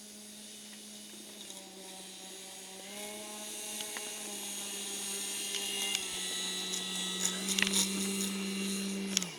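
Electric motor and propeller of a radio-controlled model airplane in flight, a steady buzzing drone that grows louder as the plane comes closer. It cuts off sharply near the end.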